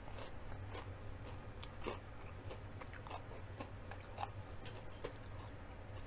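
Close-miked chewing of crunchy fried food, apparently a battered onion ring: irregular soft crunches and mouth clicks over a steady low hum.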